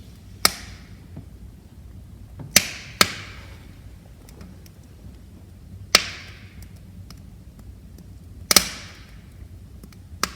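Wood fire crackling in a fireplace: about six sharp, loud pops from the burning logs, two of them close together, with faint small ticks between them over a low, steady rustle of flame.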